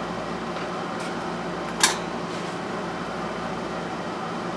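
Steady fan-like whir with a faint hum, broken once, just under two seconds in, by a single sharp knock.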